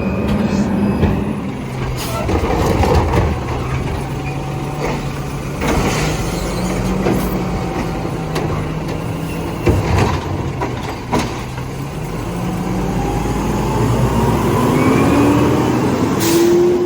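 Garbage truck running while it lifts and dumps a trash barrel: a steady engine hum with several sharp clanks and knocks, and a tone that rises in pitch near the end.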